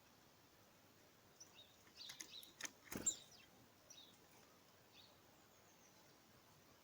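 Small garden birds giving faint, short high chirps, bunched in a flurry from about one and a half to four seconds in, with a few sharp clicks among them.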